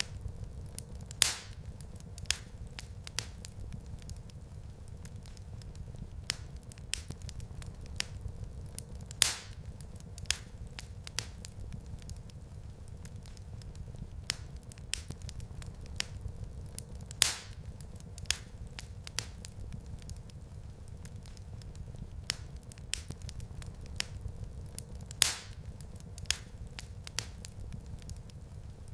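Wood fire burning in a fireplace, crackling: a steady low rumble of flames under frequent small snaps, with four louder pops evenly spaced about eight seconds apart.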